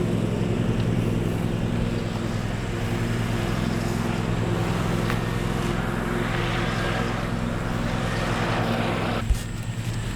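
A steady low mechanical hum, like an engine or motor running, throughout. About six seconds in a louder hiss rises over it and cuts off with a single click near the end.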